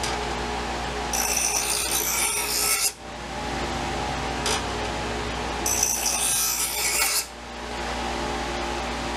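Two long rasping strokes of an abrasive being drawn along a steel knife blade to work out nicks in the edge, each stopping abruptly, with a brief scrape between them, over a steady hum.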